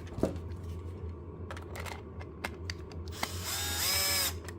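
Small electric screwdriver whirring for about a second near the end, its pitch rising a little as it backs out the screw of a battery-compartment cover. Light clicks and taps of handling come before it.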